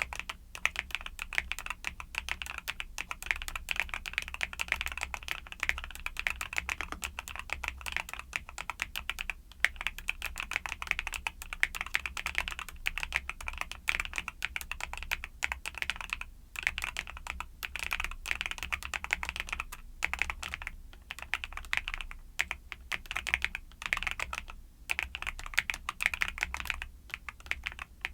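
Continuous fast typing on a YUNZII mechanical keyboard with Cocoa Cream switches: a dense run of clacking keystrokes broken by a few short pauses.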